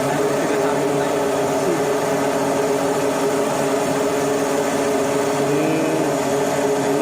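Marine engine running steadily at a constant speed, an even drone with faint voices in the background.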